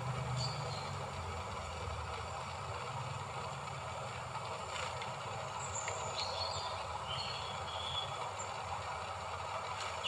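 Steady low background rumble with a few faint, short, high bird chirps scattered through it, most of them around the middle.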